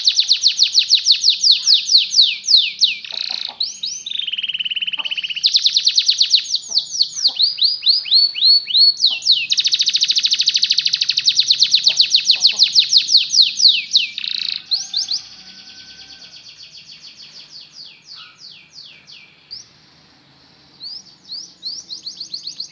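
Belgian canary singing a long song of rapid trills, each a quick run of the same repeated note that switches to a new trill every few seconds. The song turns much softer about two-thirds of the way through, then comes back loud near the end.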